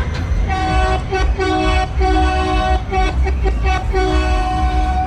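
Multi-tone train whistle sounding a series of short toots, then one long blast near the end, over a steady low rumble.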